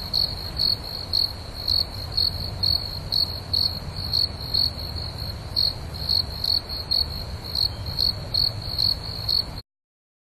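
A cricket chirping steadily, about two chirps a second, over a low steady hum. The sound cuts off suddenly near the end, leaving silence.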